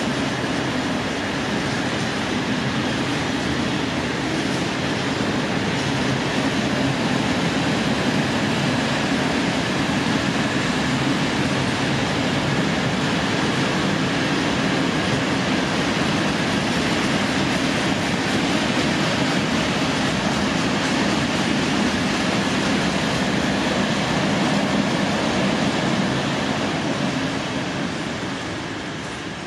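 Freight train of open-top freight wagons rolling past on the rails, a steady rolling noise of wheels and wagons. It fades near the end as the last wagon goes by.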